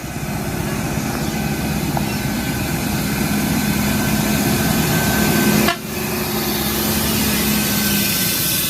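A heavy vehicle's engine running steadily under load, growing gradually louder, with a sudden brief break about six seconds in.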